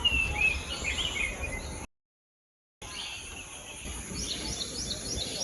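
Wild birds calling: gliding chirps, then, after a brief cut to silence, a run of quick high chirps repeated about four times a second.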